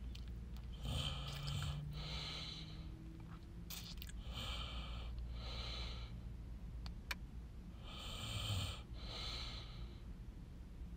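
A person breathing in and out close to the microphone, in pairs about every three to four seconds, with a single sharp click about seven seconds in.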